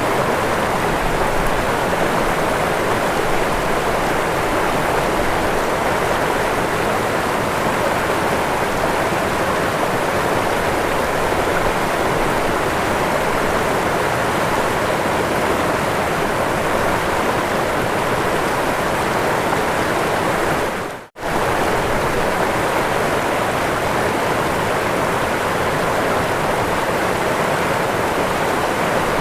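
Waterfall: steady, dense rushing of falling water. It cuts out for a split second about three quarters of the way through, then comes straight back.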